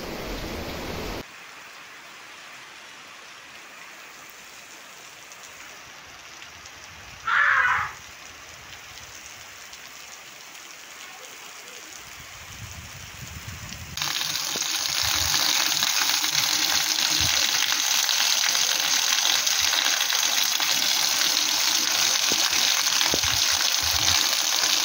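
Rain falling steadily, faint at first, then from about fourteen seconds in a much louder, even hiss of a heavy downpour on a street. A short high-pitched sound stands out briefly about seven seconds in.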